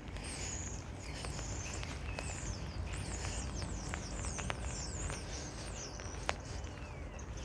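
Small bird singing a quick run of high chirps over the patter of rain and footsteps on wet ground, with a sharp tick about six seconds in.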